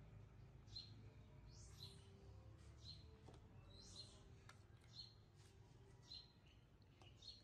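Near silence with faint, short bird chirps repeating about once a second over a low background hum.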